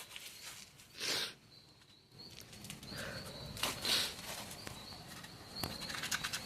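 Bonfire crackling with scattered pops, with a brief loud rush of air about a second in and another near four seconds. A high-pitched chirping repeats in short runs in the background.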